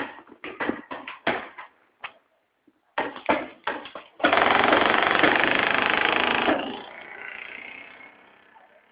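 Paintball markers firing: a string of single sharp pops over the first few seconds, then about four seconds in a loud rapid-fire burst lasting about two seconds that stops abruptly.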